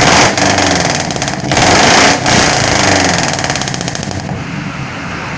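Pickup truck engine revved hard twice through an aftermarket "stereo" muffler, the kind sold for its uneven, "limping" note. After the revs it settles back to a steady idle about four seconds in.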